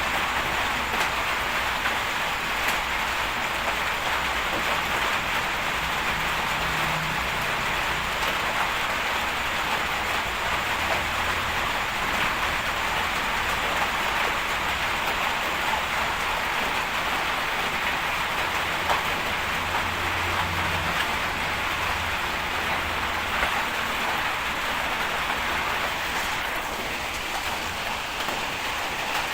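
A steady hiss, with a heavy bulldozer's diesel engine running low underneath, its pitch shifting a few times.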